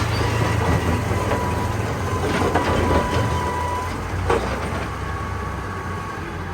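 Excavator's diesel engine running steadily with a faint steady whine, and a sharp knock about four seconds in.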